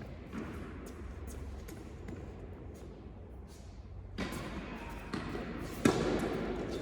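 Tennis balls bouncing on an indoor court, in a scattering of sharp knocks that grows busier in the second half, with one loud impact near the end.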